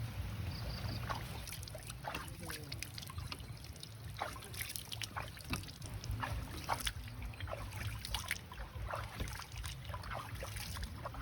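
Light rain: scattered drops tapping and dripping at irregular intervals, over a steady low rumble.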